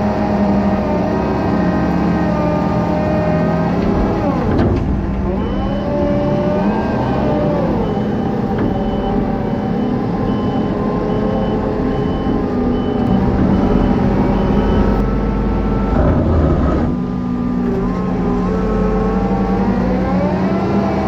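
Farm machine diesel engine working under load, its revs dropping and climbing again twice. A reversing alarm beeps steadily for several seconds in the middle.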